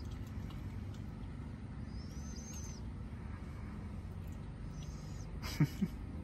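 A bird calling in the background: a thin, high, drawn-out note repeating about every two and a half seconds over a steady low rumble. Two short sharp sounds come near the end.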